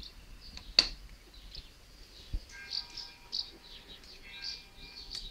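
Small birds chirping over and over, with one sharp click about a second in and another near the end.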